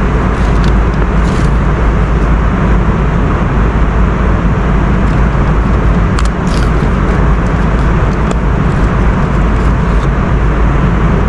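Steady cabin noise of a jet airliner in flight, engine and airflow noise heaviest in the low end and unchanging throughout, with a few faint light clicks.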